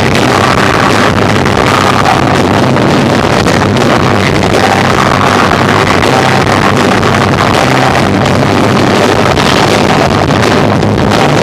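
Live rock band of electric guitar, bass and drums playing, recorded so overloaded that it comes out as a dense, distorted wash at a constant high level.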